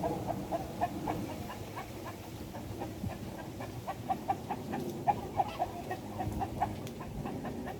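Chickens clucking: a steady run of short, irregular clucks.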